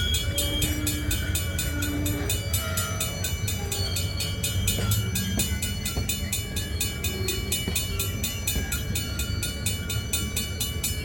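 The CPKC Holiday Train rumbling steadily past. A fast, even ringing repeats several times a second throughout, over the low rumble.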